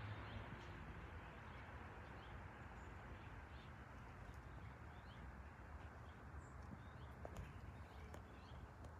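Faint steady outdoor background hiss with small birds chirping briefly now and then, and a couple of faint ticks near the end.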